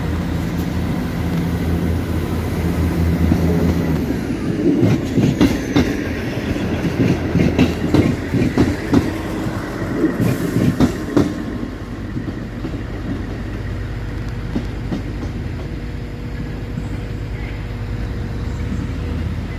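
Class 158 diesel multiple unit pulling out of the station: its diesel engine runs steadily for the first few seconds, then the wheels clatter with irregular knocks over the track joints and pointwork for several seconds before settling into a quieter rumble as it draws away.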